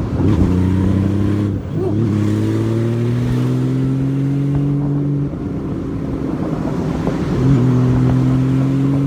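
Motorcycle engine, the rider's Honda Valkyrie flat-six, pulling under acceleration with its note climbing steadily. There is a brief shift about two seconds in. It eases off about five seconds in and pulls again, rising, from about seven and a half seconds.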